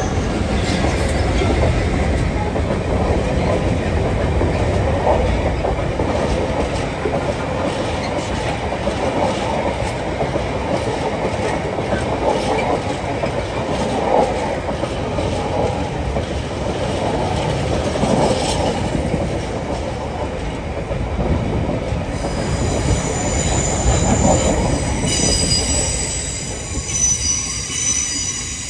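Freightliner Class 66 diesel locomotive passing with its EMD two-stroke V12 engine running, followed by a long rake of container flat wagons rumbling and clattering over the rail joints. About two-thirds of the way through, a high-pitched wheel squeal of several steady tones sets in and carries on as the train runs off.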